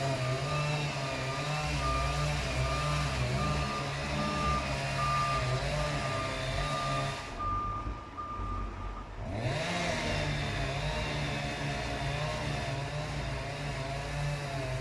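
Diesel truck engine running with its reversing beeper sounding in short, evenly spaced beeps, which stop about halfway through. The sound dips briefly just after, then the engine carries on.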